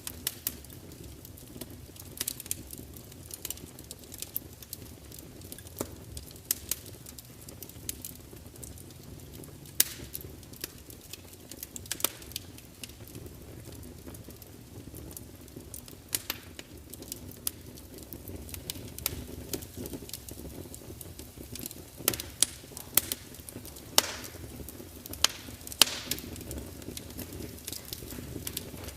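Log fire in a large open fireplace crackling, with irregular sharp pops and spits over a low steady rumble of the flames; a few louder pops come close together near the end.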